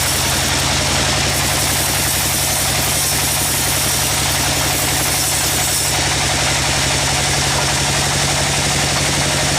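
Sawmill machinery running steadily: an engine-like drone under a constant hiss.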